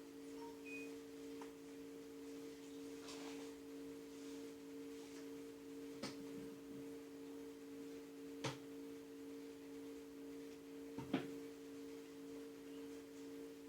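A steady two-note electrical hum, with three sharp clicks or taps spaced a few seconds apart, the last one the loudest.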